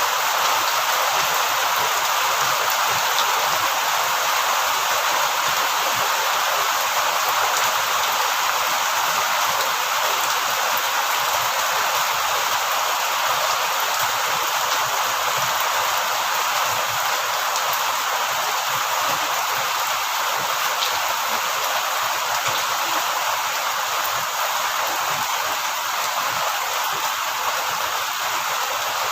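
Steady heavy rain falling: a dense, even hiss that holds constant throughout.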